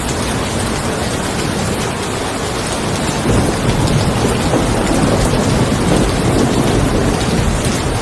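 Steady rain falling on a car, with a low roll of thunder rising about three seconds in and rumbling on for several seconds.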